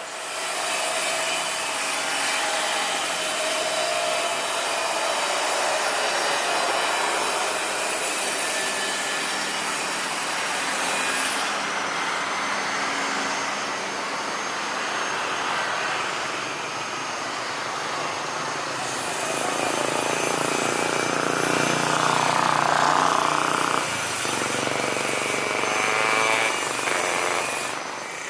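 Boeing 737 airliner's jet engines, a steady loud roar of jet noise as the plane moves past, swelling louder about three quarters of the way through.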